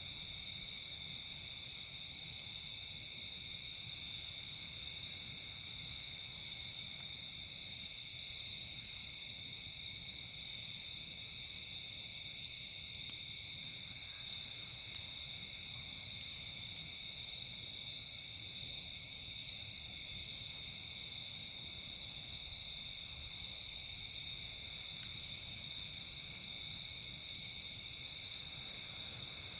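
A steady chorus of night insects such as crickets, trilling without pause. Over it, a higher-pitched insect call pulses on and off every couple of seconds. Three sharp pops stand out near the middle.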